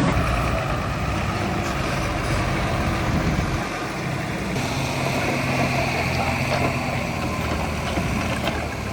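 Diesel engine of heavy earthmoving machinery running steadily, its note shifting about halfway through.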